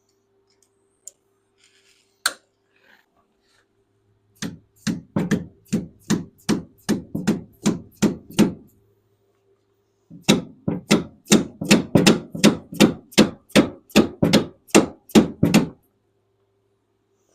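Metal hammer blows on vise grips clamped onto an old skid steer wheel seal, knocking the seal out of its bore. A single knock, then two runs of quick even blows, about three a second, with a short pause between them. A faint steady hum sits underneath.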